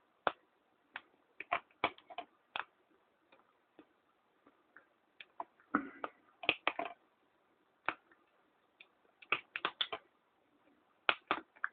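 Scattered sharp clicks and small taps, some in quick clusters of two or three, from hands working a casting lip off a small resin bobbin.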